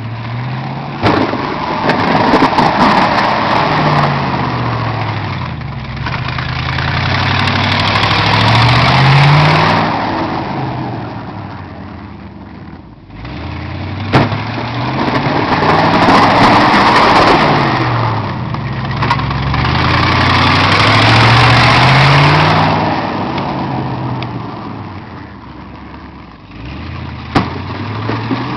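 Snow-plow vehicle engine revving up and easing off in two long passes of about 13 seconds each, with a loud rushing noise at the peak of each pass. A short sharp knock comes at the start of each pass.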